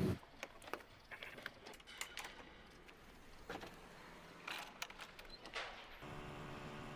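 Faint, scattered clicks and short rustles of a plastic toy truck being handled, with a low steady hum coming in about six seconds in.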